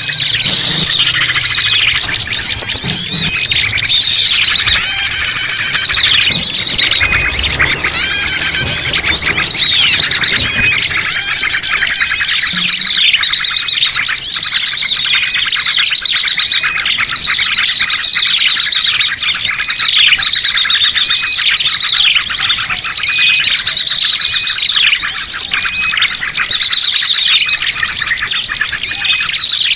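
Dense chorus of small birds chirping and calling, many quick high notes overlapping without a break.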